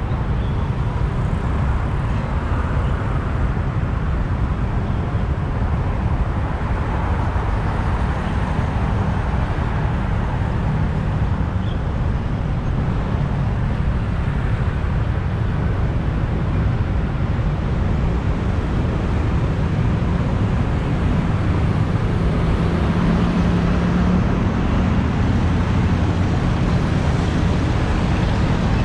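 Steady low rumble of a motorbike ride through city traffic: the bike running on the move, with the noise of surrounding road traffic.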